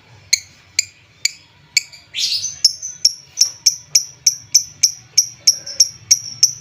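Lovebird calling with sharp, high chirps, about two a second at first. After a short burst of harsh chatter about two seconds in, the chirps run on faster and evenly, about four a second.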